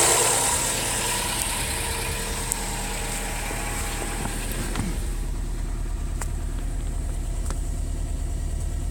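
2008 Subaru Legacy GT's turbocharged flat-four engine dropping back from higher revs in the first second, then idling steadily. The owner suspects rod knock but is not sure.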